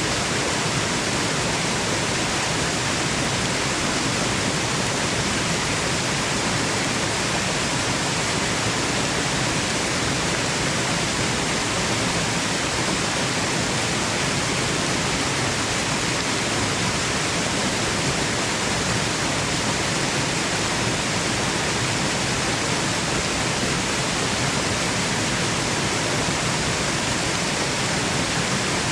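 Waterfall rushing: a steady, unbroken wash of falling water, even and unchanging, used as white noise for sleep.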